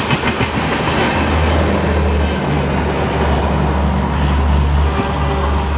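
Indian Railways double-decker passenger train passing: wheels clatter over the rail joints as the last coach goes by, then a steady low rumble continues as the train moves away.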